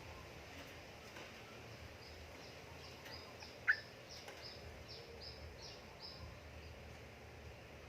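Yellow-vented bulbul (trucukan) song: a quick run of about ten short, high, down-slurred notes lasting about four seconds, with one louder, sharper note about halfway through.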